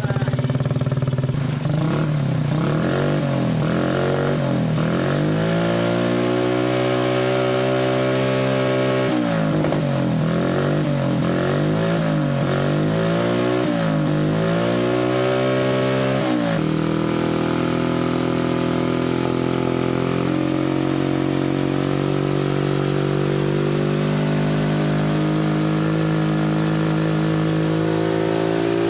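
Motorcycle engine running through a Kou Mahachai aftermarket exhaust, revved up and down repeatedly in quick swells, then from about halfway held at a steadier speed that slowly climbs.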